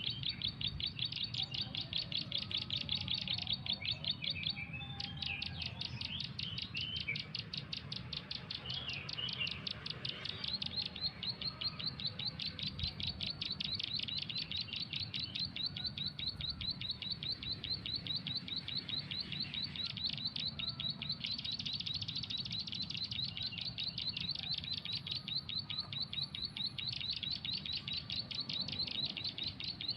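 Bird-call recording played through a phone speaker as a trapping lure: a fast, evenly repeated series of short high chirps, several a second, that never stops. Other, more varied bird calls join it between about five and ten seconds in, over a steady low rumble.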